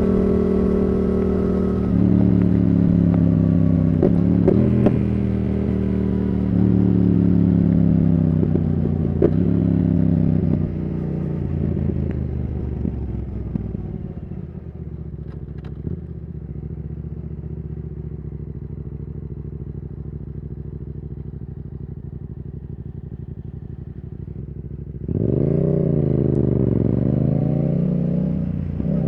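Yamaha R7's parallel-twin engine through a Yoshimura R77 exhaust: engine speed falls in steps over the first ten seconds as the bike slows and shifts down, then it idles steadily and more quietly for about fourteen seconds. About 25 seconds in it suddenly gets louder and revs up as the bike pulls away.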